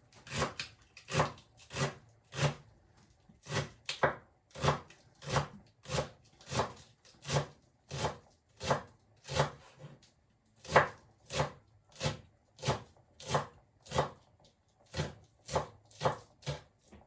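Knife chopping food on a cutting board in steady, even strokes, about one and a half a second.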